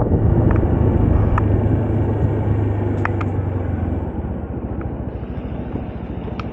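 Moda Moca 110 scooter's small engine running under way with road and wind noise; its low hum fades out about four seconds in as the level eases down, as when the scooter slows. A few short clicks are scattered through it.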